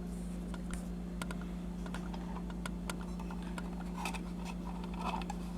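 Light scattered clicks and small rustles of a plastic toy and its cardboard box being handled as the toy is unpacked, over a steady electrical hum.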